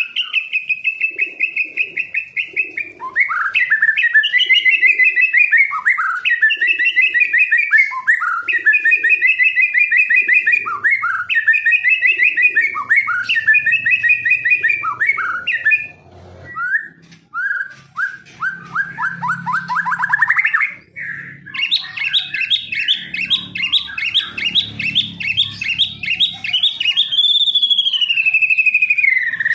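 A songbird singing loud whistled phrases: for the first half, short phrases repeated over and over; then a quickening trill that sweeps upward; then a long fast run of rapid notes ending in a downward glide.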